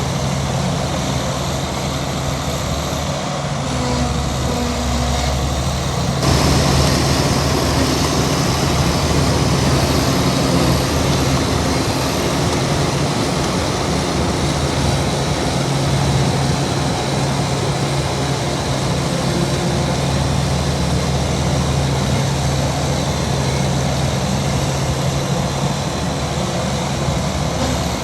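Heavy diesel engine of earthmoving machinery running steadily under load, with a constant low hum; about six seconds in the sound suddenly gets louder and hissier.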